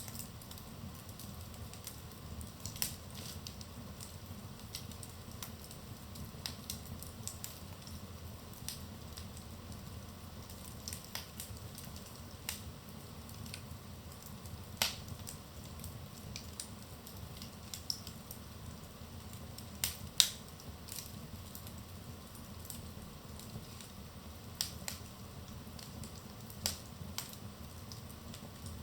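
Wood fire crackling in a fireplace: a steady low rumble of flames under scattered sharp pops and snaps, the loudest a pair of pops about two-thirds of the way through.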